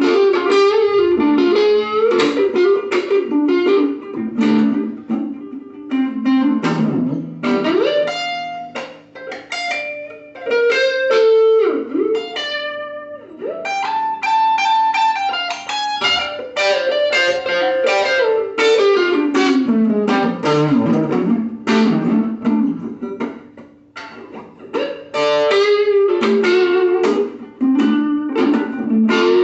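Guitar music: an instrumental passage of quickly picked single notes and runs, with a few longer held notes, and no singing.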